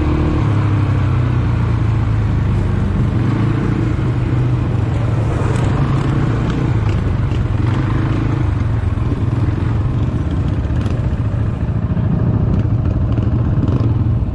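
ATV engine running steadily while riding, with wind and ground noise and a few light rattles over the terrain.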